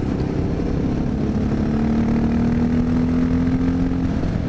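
Honda XR650L's single-cylinder four-stroke engine pulling under way, its pitch climbing gently as the bike speeds up and then falling away about four seconds in, with wind rushing over the microphone.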